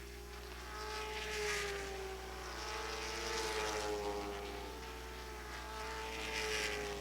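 Late model stock cars racing on an oval track, their engines heard from trackside, the engine note rising and falling and swelling three times as cars pass.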